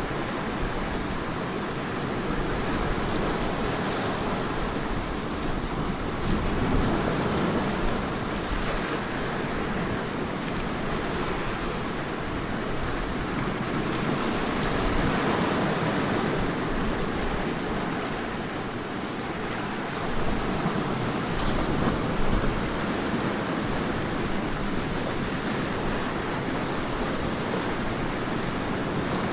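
Ocean surf breaking and washing continuously on the shore, swelling and easing in gentle surges, with some wind on the microphone.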